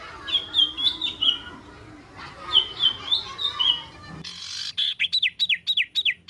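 Songbird singing: repeated short high chirps, then, after an abrupt change in background at about four seconds, a fast run of clear downward-sweeping whistles, about four a second.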